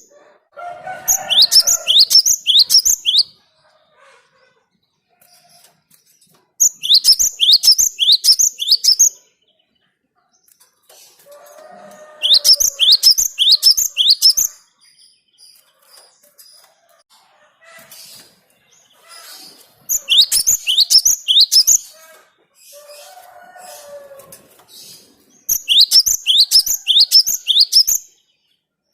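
Cinereous tit (gelatik batu) singing. It gives five loud bouts of quick, repeated, high, upslurred whistled notes, each bout two to three seconds long with pauses of several seconds between them. This is the song used as a lure call for catching the species.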